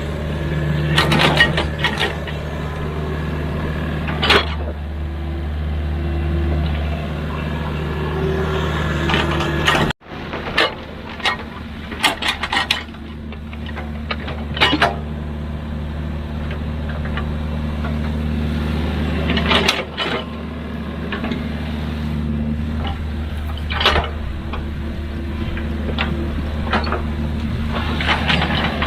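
Diesel engine of heavy construction machinery running steadily under work, with scattered sharp knocks. The sound drops out for a moment about ten seconds in, then carries on.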